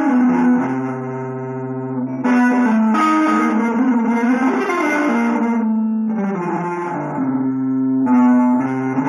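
Guitar music: held notes and chords that change every second or two, with a low bass note sounding about a second in.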